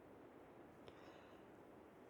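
Near silence: a faint steady hiss, with one small click about a second in.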